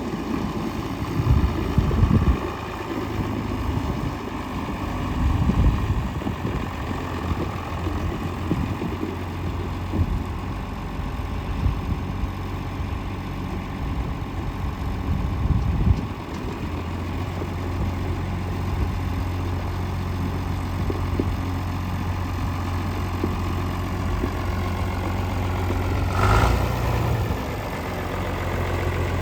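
Diesel tractor engine, a John Deere 4030's six-cylinder diesel, idling steadily. Wind buffets the microphone in the first half, and there is a brief louder moment near the end.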